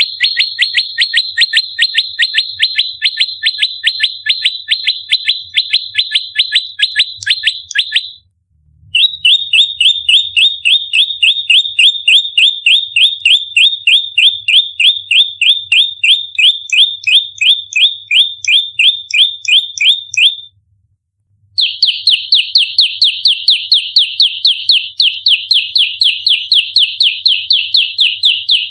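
Prenjak lumut giving its fighting call: a rapid, tight string of short, sharp chirps, about four or five a second. It comes in three long bouts with brief pauses about a third and two-thirds of the way through.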